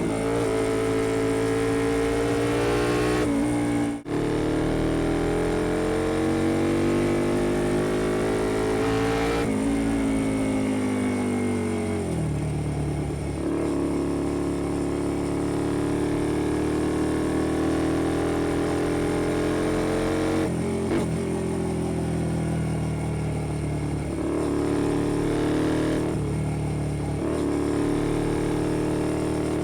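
Honda XL125V Varadero's 125cc twin-cylinder engine breathing through an aftermarket BlackWidow exhaust while riding, its note rising and falling with the throttle. It breaks off sharply for a moment about four seconds in, and its pitch falls away around ten to twelve seconds in before holding steadier.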